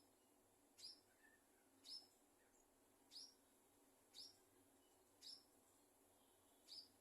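Scaly-breasted munia giving a short, sharp, high chirp about once a second, six times.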